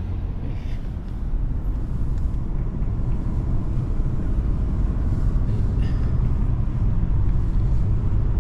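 A car being driven along a road: a steady low rumble of engine and tyres.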